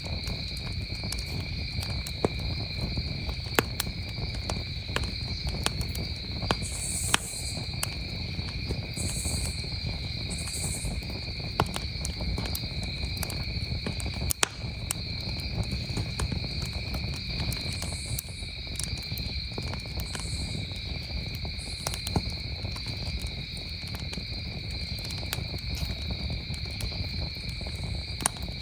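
Wood campfire crackling, with scattered sharp pops and snaps, over crickets trilling steadily without a break. A few short, faint high hissing bursts come and go.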